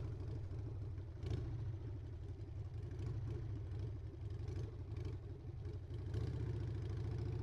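Harley-Davidson Sportster's air-cooled V-twin engine running steadily under way, with a couple of brief knocks.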